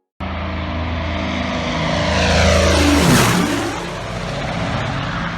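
Curtiss C-46 Commando's twin radial piston engines and propellers in a low pass. They grow louder to a peak about three seconds in, then drop in pitch and ease off as the aircraft goes by.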